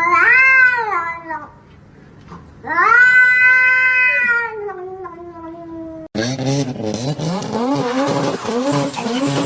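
A cat yowling: two long drawn-out calls, each rising and then falling in pitch, the second trailing off into a lower moan. About six seconds in it cuts off abruptly to a different, noisier sound with a voice over it.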